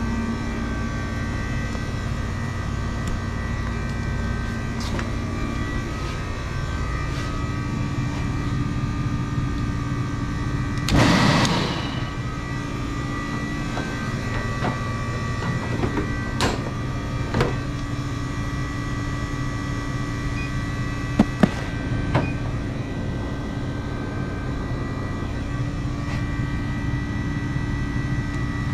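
Refrigeration machinery humming steadily, with a brief rushing noise about 11 seconds in and a few sharp clicks or knocks a little later.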